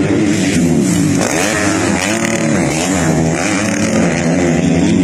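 Motocross bikes racing, several engines at once revving up and easing off again and again, their pitches rising and falling over one another.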